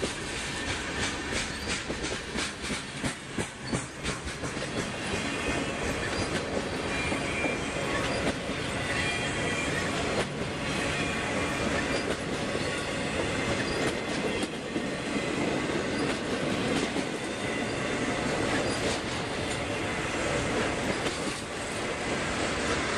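Freight train rolling past, its steel wheels clicking rhythmically over rail joints, with thin high-pitched squeal from the wheels on the rails.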